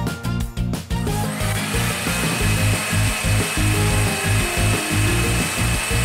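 An electric kitchen blender runs steadily for about five seconds, a loud whirring with a high whine, starting about a second and a half in, over upbeat background music.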